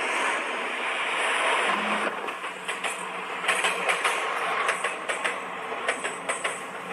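Fast train running past on the rails: a steady rush of wheel and air noise, with a quick, irregular clatter of wheel clicks setting in about two seconds in.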